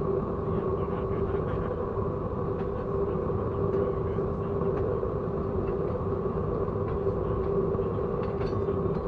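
Train running on the rails: a steady rumble with a droning hum over it.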